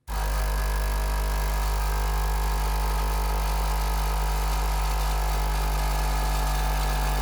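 Nespresso Citiz's vibratory pump buzzing steadily with a low hum and rattle, pumping descaling solution through the freshly repaired machine; it cuts in and cuts off abruptly.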